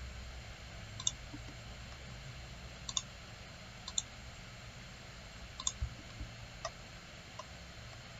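Computer mouse clicks, about nine short sharp clicks at uneven intervals, including a quick pair about three seconds in and a small cluster between five and a half and seven and a half seconds in, over faint room hiss.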